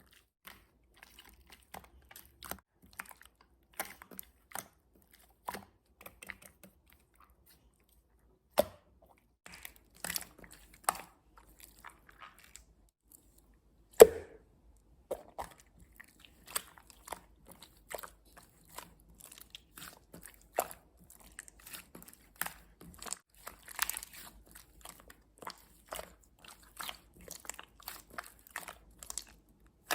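Jelly slime being squished and kneaded by hand: an irregular stream of small, sharp, wet crackles and pops, with a couple of louder pops partway through.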